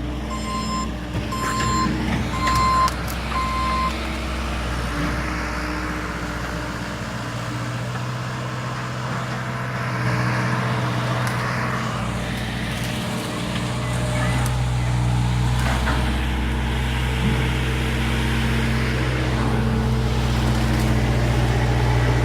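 Heavy vehicle's diesel engine running steadily, with a reversing alarm beeping about once a second for the first four seconds.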